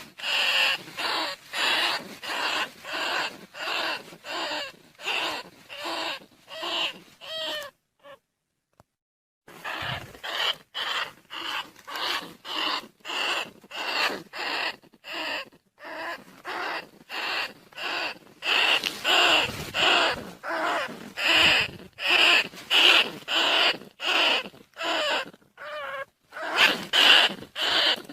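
Rat squeaks used as a lure call for rice field rats and bandicoot rats: short, shrill calls repeated about twice a second, broken by a silent gap of about a second and a half a third of the way through.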